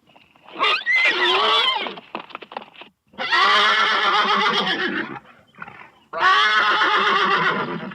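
Horse neighing: three long whinnies, the first followed by a quick stuttering run of short pulses, with a brief call between the second and third.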